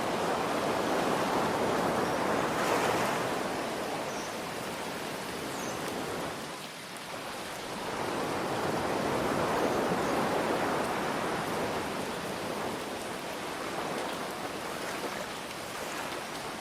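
Ocean waves washing in and ebbing away, swelling and fading three times, over a steady hiss of rain.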